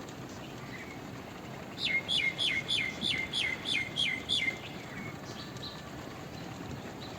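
A bird calling: a quick run of about ten loud, sharp notes, each sliding down in pitch, at about four a second. It lasts a little under three seconds, and a single fainter note follows, over a steady background hiss.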